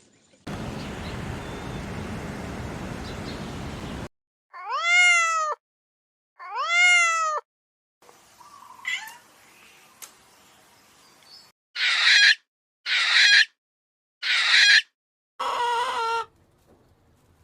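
A series of different animal calls: first a steady hiss lasting a few seconds, then two long calls that rise and fall in pitch, then four short harsh high-pitched calls and a fifth, lower one near the end.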